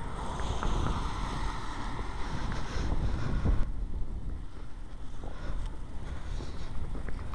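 Strong wind buffeting the handheld camera's microphone as a steady low rumble. A hiss over it cuts off suddenly a little past halfway through.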